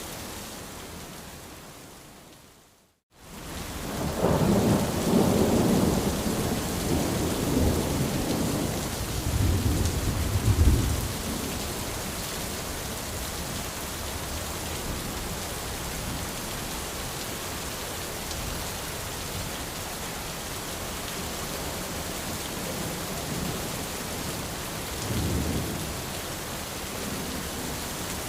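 Steady rain falling on an umbrella, with rolling thunder rumbling, loudest from a few seconds in and again briefly near the end. The sound fades out to silence about three seconds in and then comes back.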